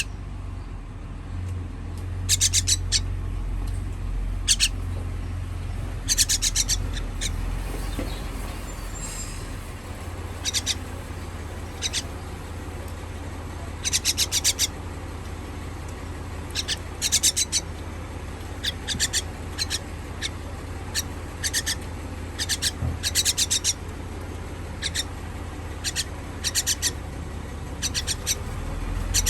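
Baby bird begging, giving rapid, high-pitched chirps in quick clusters of several notes every second or two, over a steady low hum.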